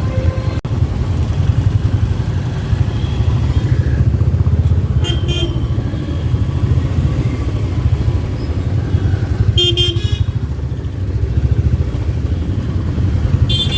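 Motorcycle riding through city traffic: a steady low engine and road rumble, with short vehicle horn toots about five seconds in, around ten seconds and again near the end.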